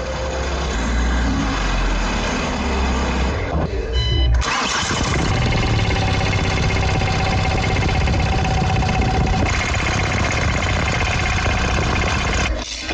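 Kia Optima's car engine running steadily.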